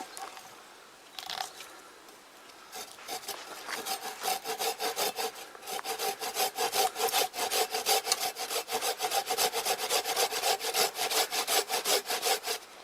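Hand saw cutting through dead wood in quick, even back-and-forth strokes, several a second, with a steady ringing tone under them. The sawing starts about three seconds in.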